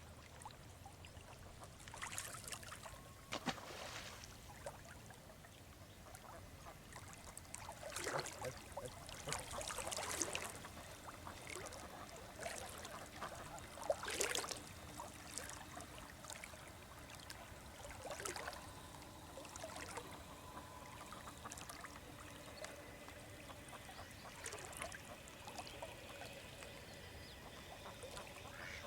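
River water splashing and trickling, with several separate splashes over a steady running-water background; ducks quack faintly.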